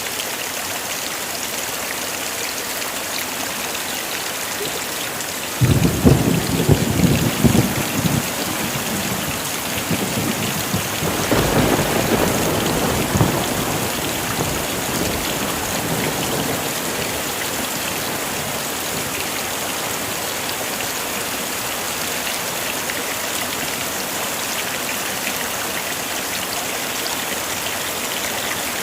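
Heavy rain falling steadily. A sudden clap of thunder breaks about six seconds in and crackles for a couple of seconds, then a second, longer rumble of thunder comes about five seconds later and fades away.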